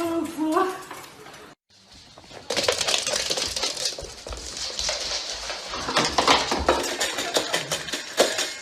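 Busy, irregular clattering and clinking of small hard objects, starting a couple of seconds in.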